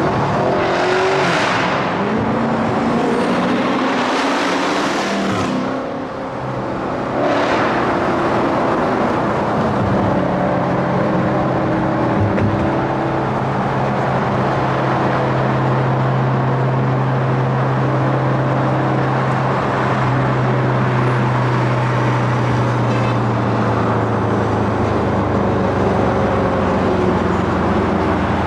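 Car engine running under way, with loud rushing surges three times in the first eight seconds, then a steady engine drone that eases off near the end.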